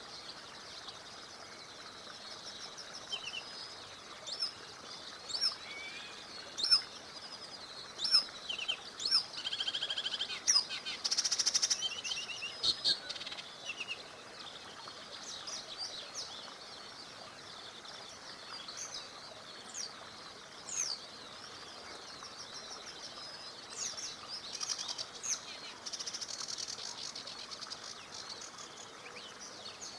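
Several songbirds chirping and singing in short phrases, with a denser rapid trill around eleven seconds in, over the steady rush of a small river.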